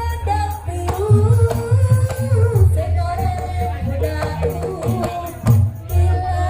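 Live band music: a singer's melody over a steady beat of heavy drums and hand percussion.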